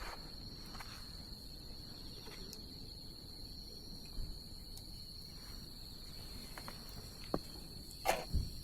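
Wood bonfire crackling with a few sharp pops and snaps, the loudest near the end, over an insect's steady, high-pitched trill.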